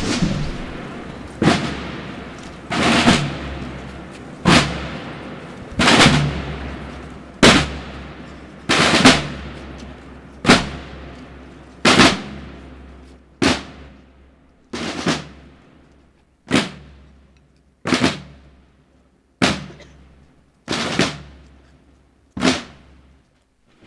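Procession drum beating a slow, steady funeral beat, one stroke about every second and a half, each ringing away briefly. The beats grow fainter toward the end.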